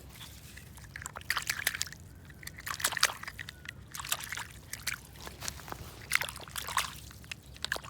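Water sloshing and splashing in short irregular bursts as hands rinse mud off a small plastic toy in shallow field-drain water.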